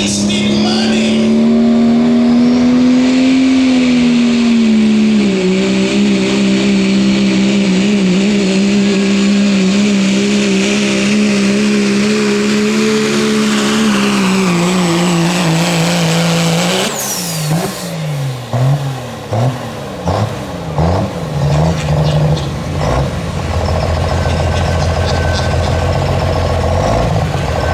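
Diesel pulling truck's engine at full throttle under heavy load for about seventeen seconds, its pitch sagging slightly as the load builds. Then the throttle comes off suddenly, followed by a series of quick revs up and down before the engine settles to a lower, steady run.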